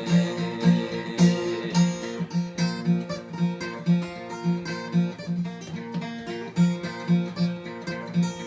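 Solo acoustic guitar, fingerpicked in an open C tuning (CGDGBE) and capoed at the third fret, playing an instrumental passage with a steady alternating bass pulse under the melody notes.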